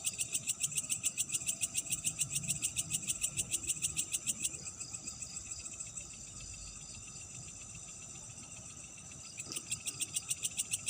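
Night insects chirping: a loud, even pulsing chirp at about six pulses a second stops about four and a half seconds in and starts again near the end, over a steady high-pitched trill from other insects.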